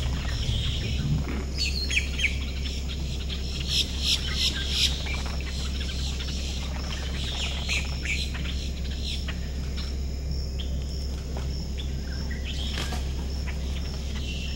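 Wild birds chirping and calling in short, scattered notes, busiest in the first half, over a steady low hum.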